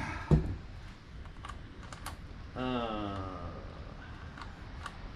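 Scattered sharp metal clicks and clinks of tools and parts being handled during a rear differential teardown, with one heavy knock just after the start. A person gives a brief falling groan about two and a half seconds in.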